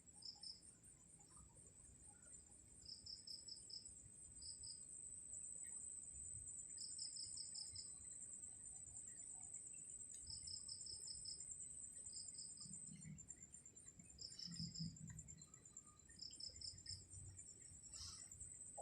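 Insects chirping faintly: a steady, high, pulsing trill runs throughout, while a second insect calls in short pulsed bursts every second or two.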